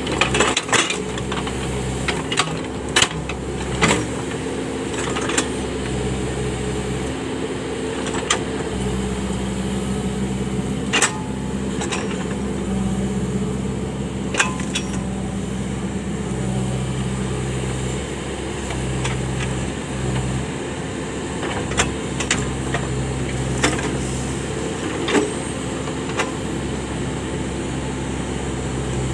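Case 580 backhoe loader's diesel engine running steadily, its low tone shifting every few seconds as it works, with sharp knocks now and then.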